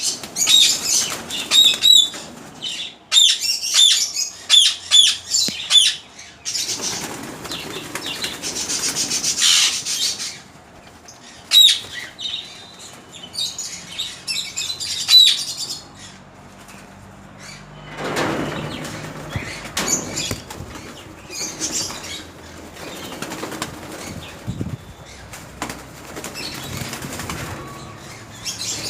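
Birds flapping their wings, with runs of short, high, falling chirps in the first few seconds and again after about eleven seconds.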